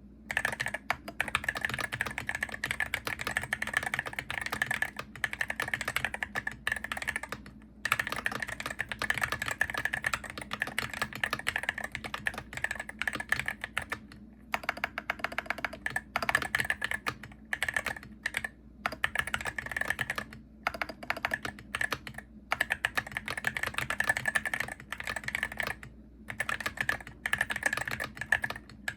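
Typing on a Hero68HE gaming keyboard: fast runs of key clicks, broken by brief pauses every few seconds.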